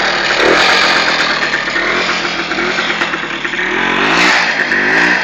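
IZh-56 motorcycle's single-cylinder two-stroke engine running loudly, revved up in several rising surges in the second half.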